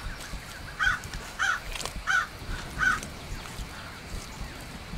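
A bird calling four times in quick succession, short harsh calls about two-thirds of a second apart, over a steady background hiss.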